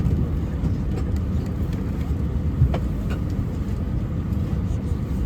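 Steady low rumble of air-conditioning and engine or APU noise inside an Airbus A320 cabin on the ground, with a couple of faint knocks near the middle.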